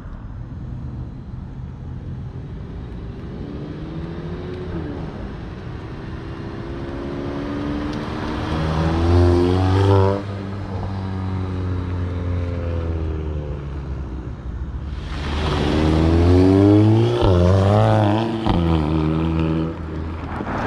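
Tuned Volkswagen Golf GTI (MK7) turbocharged 2.0-litre four-cylinder, with downpipe and resonator delete, accelerating hard twice. The engine note climbs and grows louder until it cuts off abruptly about halfway through. A second, louder pull a few seconds later climbs again, with quick drops in pitch at the DSG gear changes.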